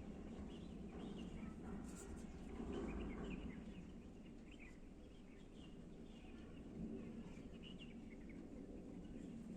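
Faint, scattered bird chirps over a steady low background noise.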